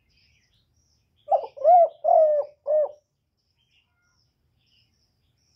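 Spotted dove giving one cooing phrase of four notes, about a second in. Faint high chirps of small birds are heard around it.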